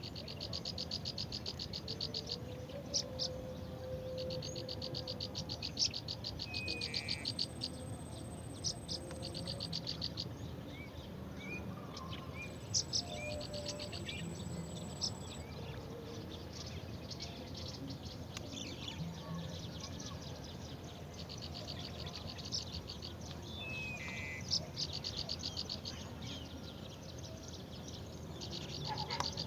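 Outdoor wildlife ambience: rapid pulsed trills repeating in bouts of a few seconds, with scattered short bird chirps and, twice, a brief steady high whine.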